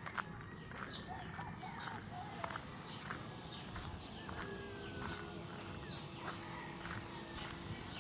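Many short bird chirps and calls at a quick, uneven rate, over a steady low background with footsteps.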